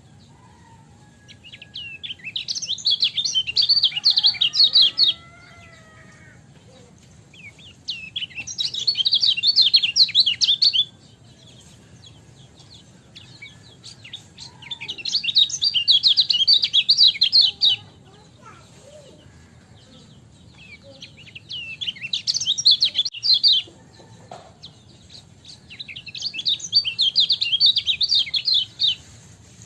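Kecial kuning, a yellow white-eye, singing: five bouts of rapid, high chattering trills, each about three seconds long, with pauses of a few seconds between them.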